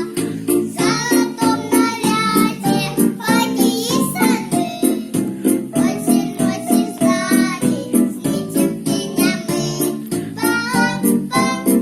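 Young children's voices singing a children's song over instrumental accompaniment with a steady beat.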